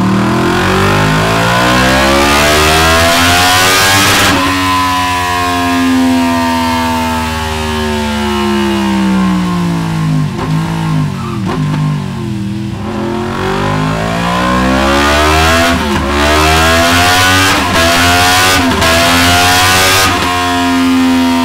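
Yamaha MT-10's crossplane-crank inline-four revving on a dynamometer through a Delkevic DS70 carbon fibre silencer. The revs climb hard for about four seconds, the throttle shuts and the revs fall away over several seconds with a few short blips, then climb again, broken by several abrupt cuts, and stay high near the end.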